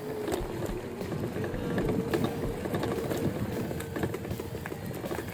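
500-watt electric bike hub motor whining at a steady pitch while riding, over rumbling wind and road noise.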